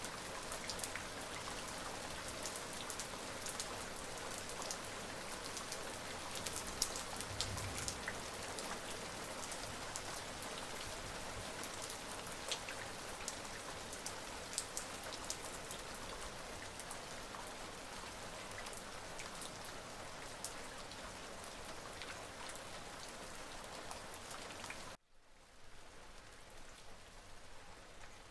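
Steady rain falling on a surface, with many separate drop hits heard over a constant hiss. About 25 seconds in it cuts abruptly to quieter rain.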